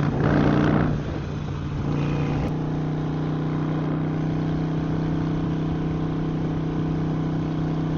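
Harley-Davidson Sportster Iron's air-cooled V-twin running under way. There is a louder rush of noise in the first second, then the sound dips briefly and the engine settles into a steady, even note.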